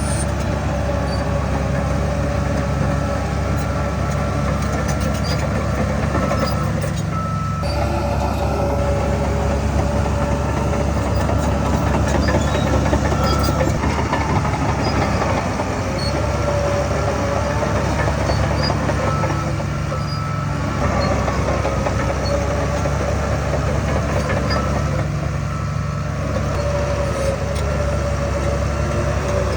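Heavy earthmoving machinery with its diesel engine running steadily, a deep drone with thin whining, squealing tones above it that waver slowly in pitch.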